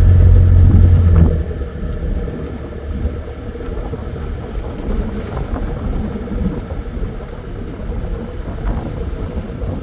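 Four-wheel-drive vehicle driving on a dirt road. A loud low engine drone drops away about a second in, leaving a steady rumble of tyres and wind.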